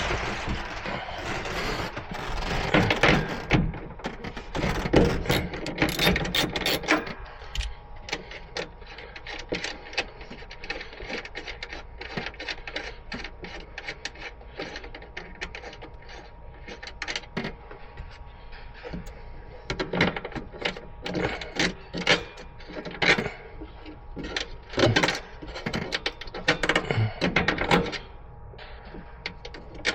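Workshop handling noises: irregular clicks, clanks and light knocks of hand tools and metal parts being handled, busier and denser for the first several seconds, then sparser.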